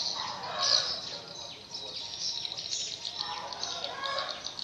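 Birds chirping: a steady run of quick, high chirps, with a brief lower sound about half a second in and another around three to four seconds in.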